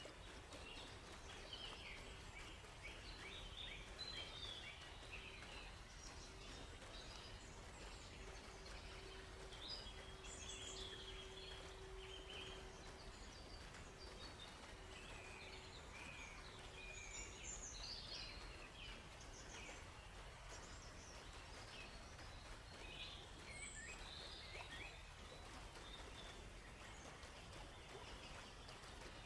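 Faint chorus of small forest birds, many short chirps and twitters overlapping, over a low steady background noise. A faint steady hum runs through the first half and then stops.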